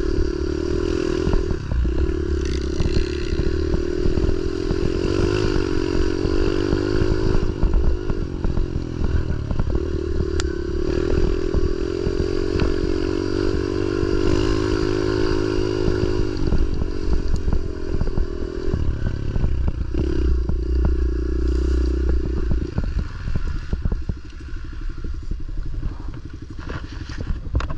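Pit bike engine running under throttle while being ridden, its pitch rising and falling as the throttle is worked. It eases off and gets quieter near the end.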